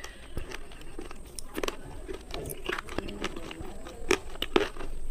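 Slate pencil being bitten and chewed: irregular sharp, dry crunches, the loudest a little over four seconds in.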